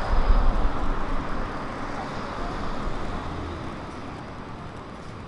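A car passing by on the street. Its tyre and engine noise is loudest in the first second, then fades away.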